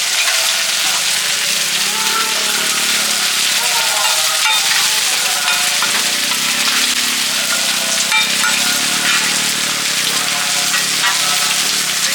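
Seafood omelette frying in hot oil, sizzling steadily.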